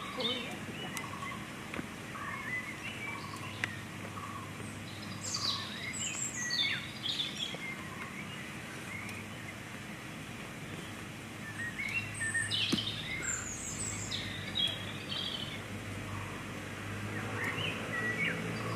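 Small birds chirping and calling repeatedly, short quick notes coming in clusters, over a steady low background hum.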